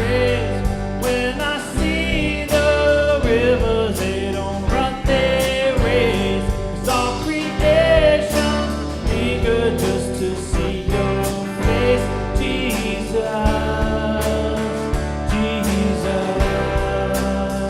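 Worship band playing a country-style gospel song: guitars, bass and drums with a steady beat under a melody line that bends in pitch.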